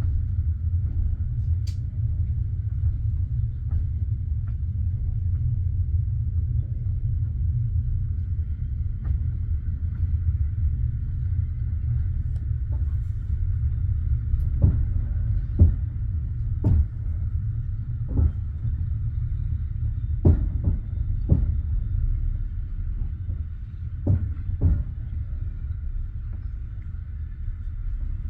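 Passenger train carriage rumbling steadily as it rolls, heard from inside. From about halfway through, the wheels knock sharply over rail joints, several times in quick pairs, and the knocks stop near the end.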